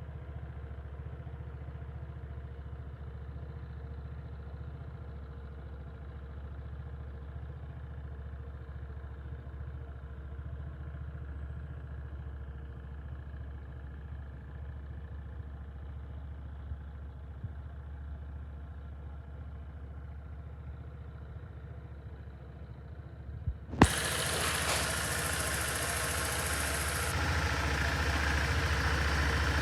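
Honda PCX125 scooter's single-cylinder engine idling steadily. About 24 seconds in there is a sharp click, and the running sound becomes louder and fuller from then on.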